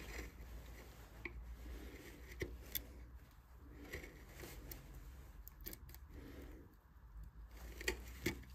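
Hand carving tools cutting and scraping into wood in short, irregular strokes, with scattered sharp clicks and taps.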